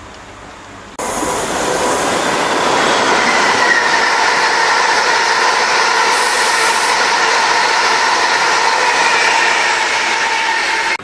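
A train running past close by: a loud rush of wheel and rail noise with steady high-pitched whining tones through it. It starts suddenly about a second in and cuts off sharply near the end.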